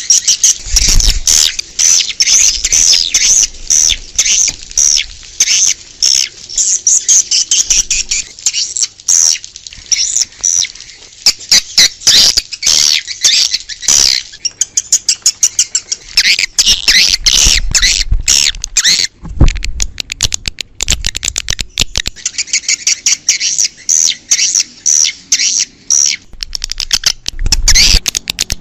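Recorded swiftlet calls: a dense flock chorus of rapid, high chirps and twitters with a clicking texture, without a break. A few low thuds occur, about a second in, around two-thirds of the way through, and near the end.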